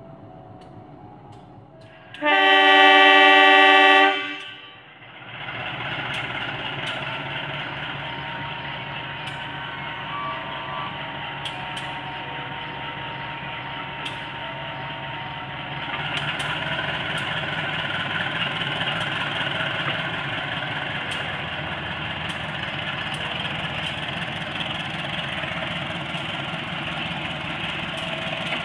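Diesel locomotive horn sounding one loud blast of about two seconds, followed by the steady rolling rumble and wheel noise of passenger coaches passing on the track, with occasional sharp clicks.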